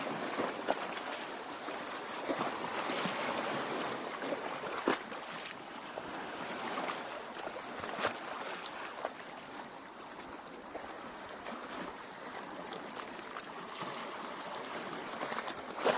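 Lake water lapping at the shore: a steady wash with a few small, sharp splashes now and then.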